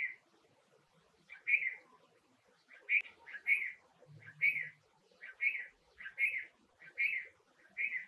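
Small bird chirping: short calls of similar pitch, repeated about once every three-quarters of a second.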